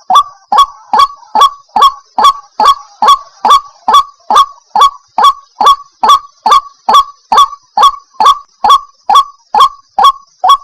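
White-breasted waterhen calling, a fast, even run of loud, harsh notes repeated about two and a half times a second, breaking off near the end. It is a lure call used to draw the birds in.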